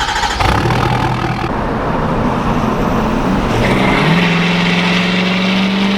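Straight-piped Ford F-250 exhaust at full throttle. The engine note climbs about three seconds in, then holds steady.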